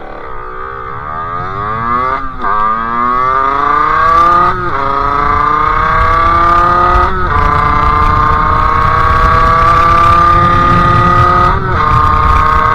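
50cc two-stroke Sherco engine with a KRM expansion exhaust and Polini CP 17.5 carburettor accelerating up through the gears. The revs climb, with four upshifts about 2, 4½, 7 and 11½ seconds in, each a brief break before the pitch climbs again from lower down.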